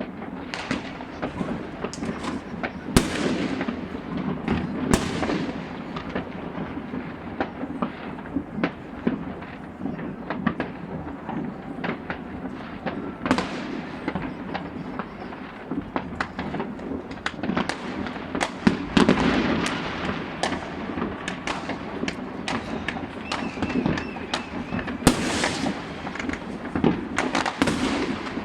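Many fireworks going off at once around the city at midnight on New Year's Eve: a continuous crackle of distant firecrackers and rocket bursts, with louder nearby bangs every few seconds.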